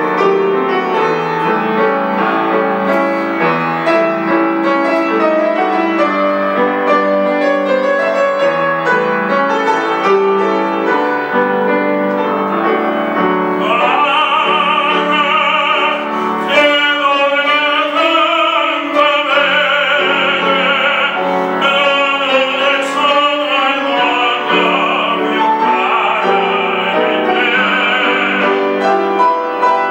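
Piano playing alone, then a classically trained voice comes in about halfway through, singing with vibrato over the piano accompaniment.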